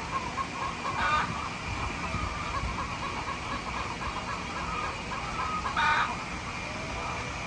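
Chickens clucking, with two louder calls: one about a second in and one near the end, over a steady background drone.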